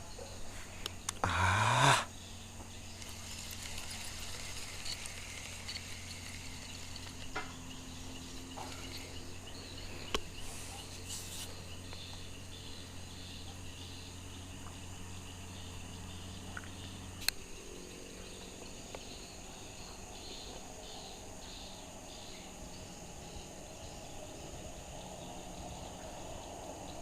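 Crickets and other insects chirring steadily at night over a low steady hum. There is a short, loud rising noise about a second in, and a single sharp click later on.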